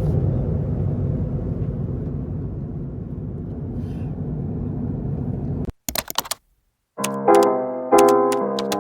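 A low rumbling hum that cuts off abruptly, then a few clicks and a moment of silence. Background piano music follows, with chords struck about every half second.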